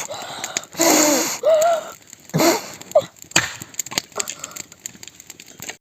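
Someone blowing hard in breathy puffs onto smouldering tinder to coax it into flame, with a few small sharp clicks and snaps in between.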